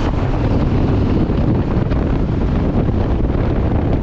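Steady wind rush on the microphone over the low, even drone of a Benelli TRK 702's parallel-twin engine while riding.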